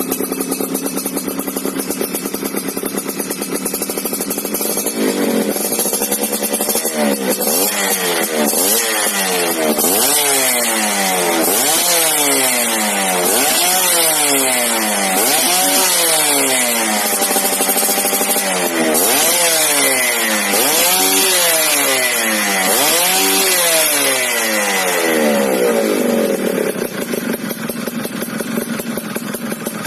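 Yamaha F1ZR's two-stroke single-cylinder engine through an RTX racing exhaust, idling, then revved up and down over and over, with one rev held for a moment midway. It settles back to idle near the end.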